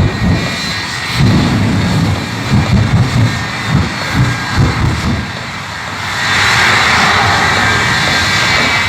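Shockwave jet semi truck's three jet engines: irregular low rumbling bursts, then from about six seconds in a loud, steady jet roar.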